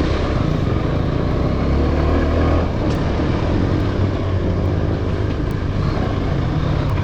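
Motorcycle engine running with a steady, low, even note.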